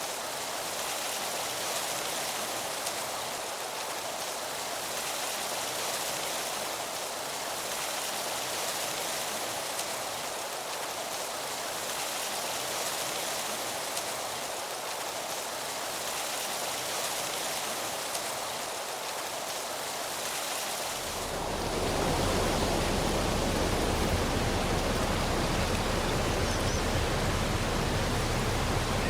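Wind rushing through forest trees and leaves, a steady hiss that swells and eases every few seconds. About two-thirds of the way through, a low rumble joins and the sound grows louder.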